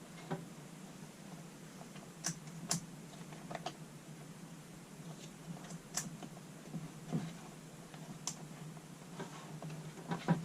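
Scattered clicks and light taps from handling a cordless chainsaw while its chain tension is adjusted by hand, turning the bar tensioner and working the chain. The clicks come irregularly, about one a second, over a faint steady hum.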